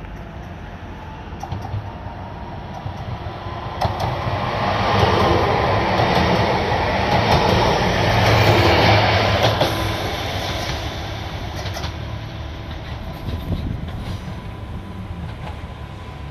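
Regional multiple-unit passenger train passing close by. Its rumble grows as it approaches, is loudest about five to ten seconds in with several sharp wheel clacks over rail joints, then fades as it moves away.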